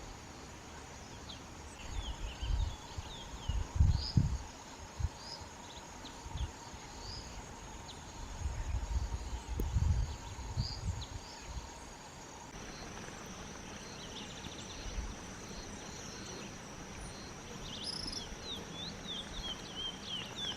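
Short, scattered high bird chirps over a steady high-pitched insect drone. Low thumps and rumbles, loudest a couple of seconds in and again around the middle, are wind or handling noise on the microphone.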